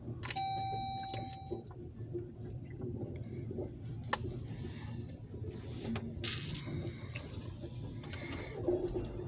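Freight train cars rolling past: a steady low rumble of wheels on rail, with a few faint clicks. A brief held tone, about a second long, sounds near the start.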